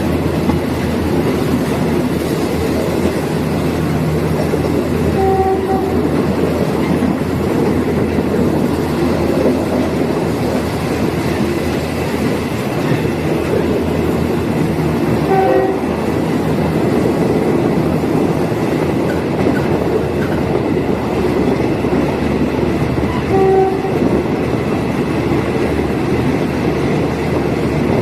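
Diesel multiple unit train running along the track: a steady, loud rumble of engine and wheels on rail, with brief faint tones about five, fifteen and twenty-three seconds in.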